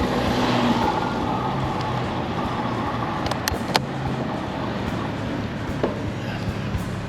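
Road traffic on a busy main road: a car passes close by about a second in, over a steady low hum of vehicle engines, with a few short sharp clicks midway.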